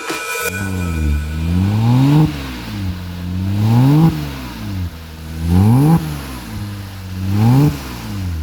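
Porsche Cayman 987's 3.4-litre flat-six revved four times in a row, each rev climbing in pitch for a second or two and then dropping sharply back toward idle.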